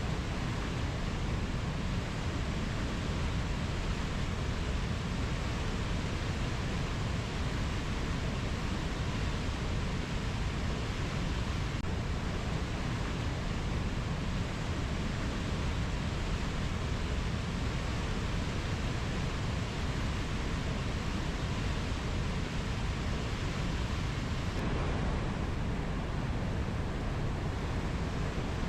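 Steady, even rushing noise of a rainforest nature-sound recording, heaviest in the low end, with no bird or insect calls standing out.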